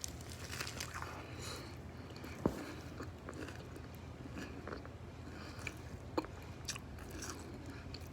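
Close-miked biting and chewing of a turkey burger: crunchy bites and wet chewing clicks, with two sharper crunches, about two and a half seconds and about six seconds in.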